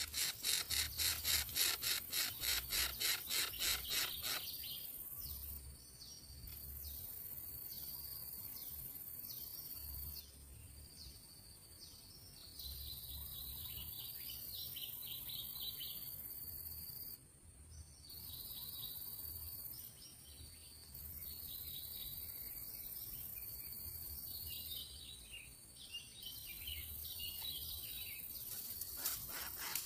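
Outdoor wildlife ambience: insects buzzing in a steady high band, with many short, repeated bird chirps. A fast pulsing trill, about four or five beats a second, runs through the first four seconds and returns near the end.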